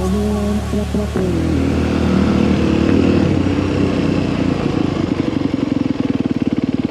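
Single-cylinder dirt bike engine running, then dropping about halfway through to a low idle where the separate firing pulses can be heard.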